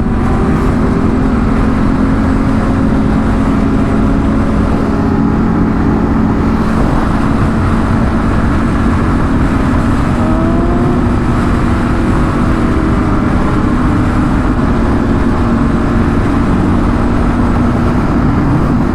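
Sport-bike engine running at a steady, high cruising speed, with heavy wind rush on a helmet-mounted microphone. A short rising whine comes in about ten seconds in.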